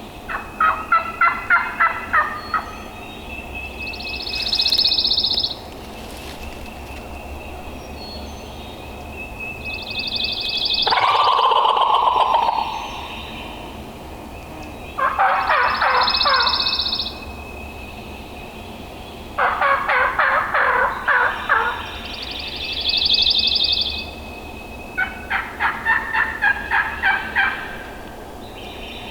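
Wild turkey gobbler gobbling several times, each gobble a rapid rattling burst of a couple of seconds, with other bird calls in between.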